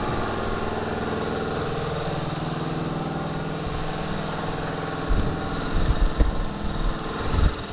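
Farm tractor engine running steadily, heard from the dash while the tractor is backed up, with irregular low thumps in the second half.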